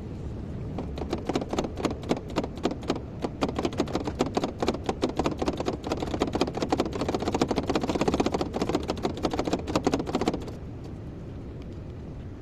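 Excavator running with a low steady drone, under a rapid, uneven clatter of knocks, several a second, that starts about a second in and stops suddenly near the end.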